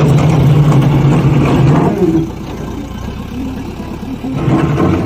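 Diesel engine of a tractor or backhoe running loudly for about two seconds, then dropping away, and picking up again near the end.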